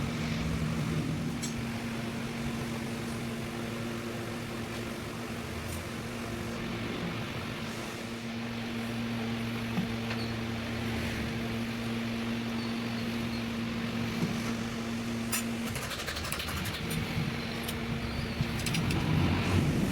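A steady machine hum with a few sharp clicks and taps, more of them near the end.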